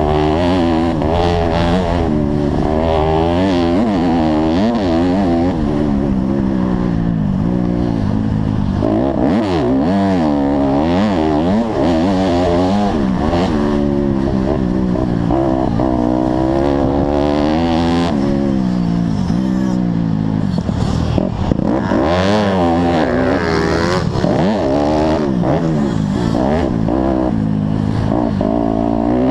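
Honda CRF150R's single-cylinder four-stroke engine, revving up and falling back again and again under hard throttle, with a rise in pitch on each pull and a drop at each shift or throttle-off.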